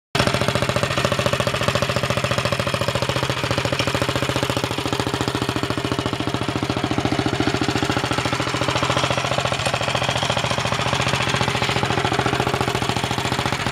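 Coleman CT200U minibike's single-cylinder engine idling steadily through a side-exit loop exhaust pipe, a fast even exhaust pulse, starting abruptly at the beginning.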